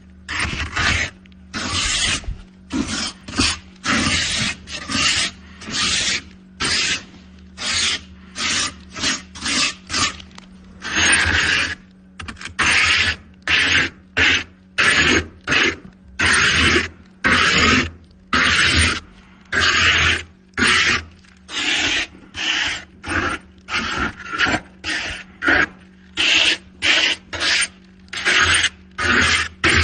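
Ice being scraped in repeated rasping strokes, about one to two a second, each a short hissing scrape.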